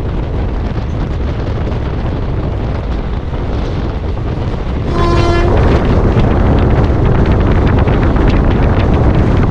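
Steady rumble of a moving train with wind on the microphone. About five seconds in comes a short horn blast, after which the rumble grows louder and more clattery.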